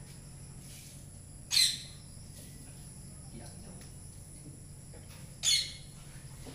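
A bird calling twice, about four seconds apart: each a short, high call that falls quickly in pitch. A steady low hum runs underneath.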